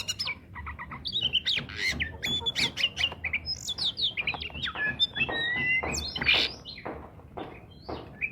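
Oriental magpie-robin (kacer) singing energetically: a rapid, unbroken stream of varied whistles and chirps mixed with harsh rasping notes.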